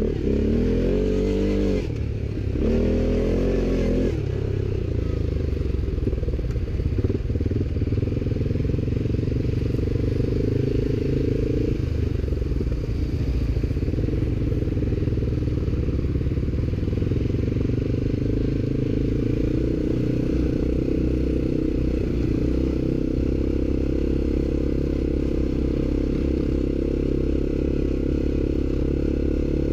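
ATV engine running under load, revving up twice in the first few seconds, then pulling at a fairly steady speed.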